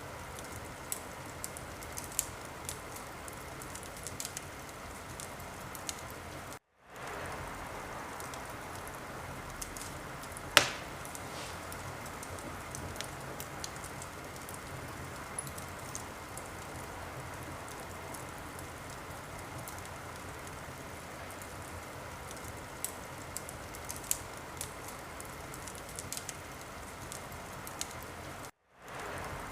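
Wood fire crackling in a fireplace: a steady hiss of burning with scattered small pops and snaps, and one sharp, much louder pop about ten seconds in. The sound cuts out to silence for a moment twice.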